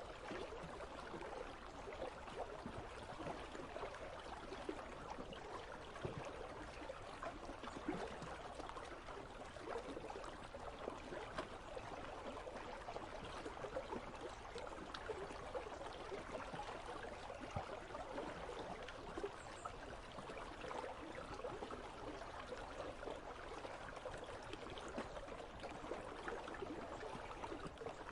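Icy river running steadily: a continuous babble of flowing water that does not change.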